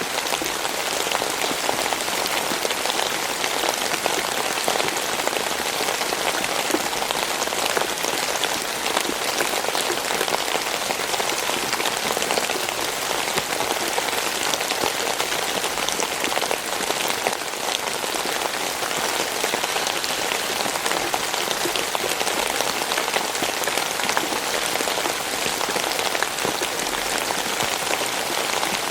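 Steady rain falling, a dense hiss of drops pattering on a surface with many fine individual drop ticks, unchanging throughout.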